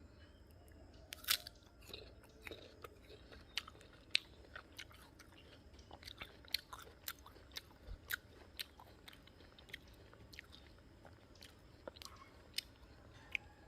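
A bite into a crisp guava, one loud crack about a second in, followed by crunchy chewing with many irregular small crackles.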